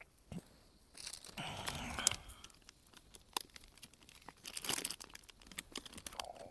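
Irregular rustling, crunching and scraping handling noises with scattered sharp clicks, in two louder stretches about a second and a half in and near five seconds in.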